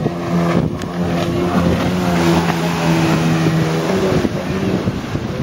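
Watercraft engine running at a steady pitch.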